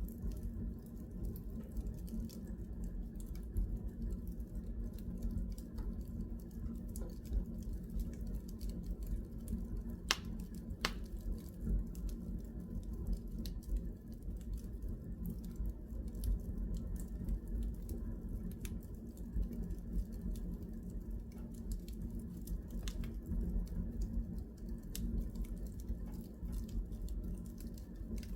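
Wood fire burning in a fireplace: a steady low rumble of flame with constant small crackles and a few sharper pops, two of them close together about ten seconds in.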